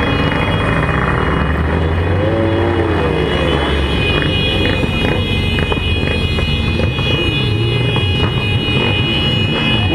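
Motorcycle engines running amid loud, steady road noise.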